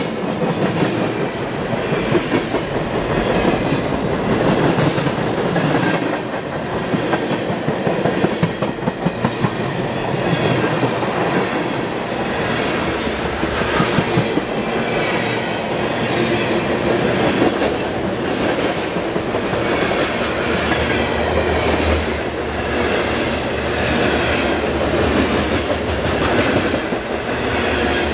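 Freight train of tank cars, then covered hoppers, rolling past close by: a steady rumble with the steel wheels clicking rhythmically over the rail joints.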